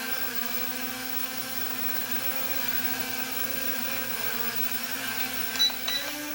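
Small brushless quadcopter hovering, its four motors and propellers giving a steady multi-tone whine, with a few short clicks near the end. One rear-right propeller is badly cracked, yet the pitch holds steady.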